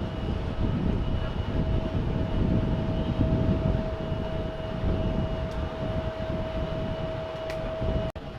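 Jet airliner engines rumbling loudly, with a steady high whine over the rumble. The sound breaks off sharply just before the end.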